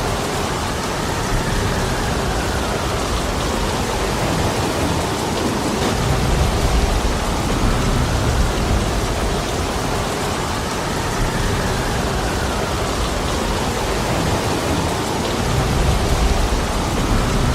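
Heavy rain falling steadily. A low rumble, the wind, swells up twice: in the middle and again near the end.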